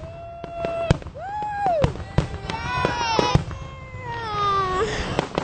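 Aerial fireworks going off: repeated sharp bangs and crackles. Over them are several drawn-out high-pitched sounds; one is held for about a second at the start, and later ones arch or slide downward.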